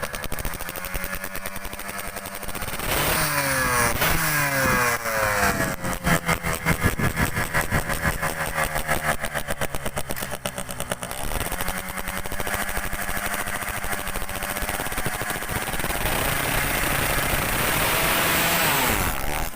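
Yamaha F1ZR two-stroke engine, bored out to 116 cc, running and being revved several times while it is tuned. The revs climb, fall away and climb again.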